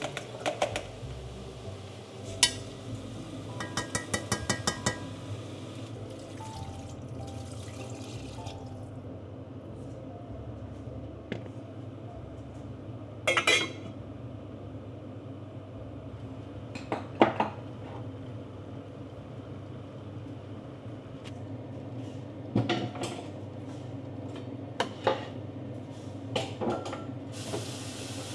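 Kitchen utensils and cookware clinking and knocking: a quick run of ringing metal-and-glass clicks a few seconds in, then single knocks every few seconds over a steady low hum.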